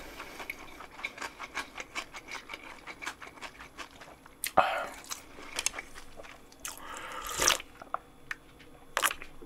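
Close-miked chewing of cold naengmyeon noodles, a quick run of small wet mouth clicks, followed by a few short slurps of noodles and broth from the bowl in the second half.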